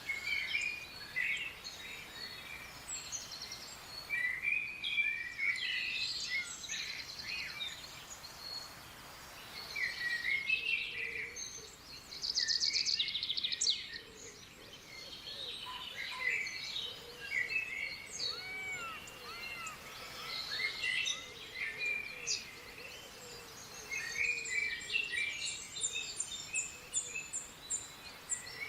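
Several wild forest birds chirping and calling over one another, with a fast buzzy trill about halfway through and a run of quick high-pitched notes near the end.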